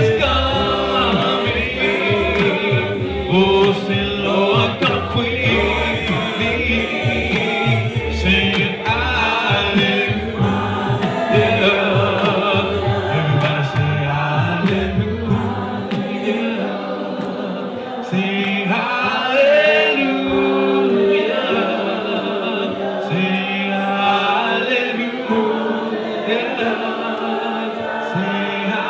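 Gospel worship song sung by a choir of voices with musical backing. The deep low end of the backing drops out a little past halfway, leaving mainly the voices.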